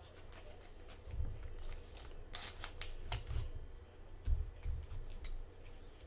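Sports trading cards being handled: light scattered rustles, slides and clicks, with soft taps on the table and a few sharper card-edge sounds a little past the middle.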